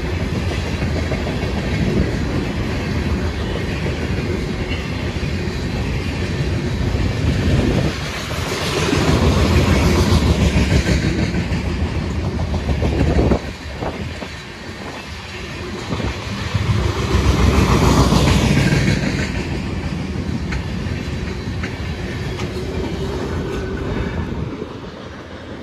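Freight cars of a CSX manifest train rolling past at close range, the wheels clattering steadily over the rails. The rumble swells louder twice and dips suddenly once midway.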